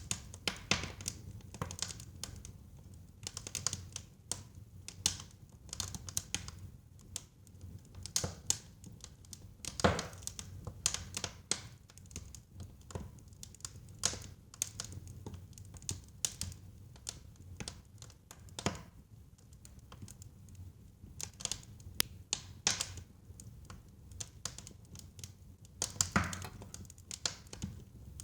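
Wood fire burning in a fireplace: irregular crackles and sharp pops over a low steady rumble of the flames, with a few louder pops, one about ten seconds in and another near the end.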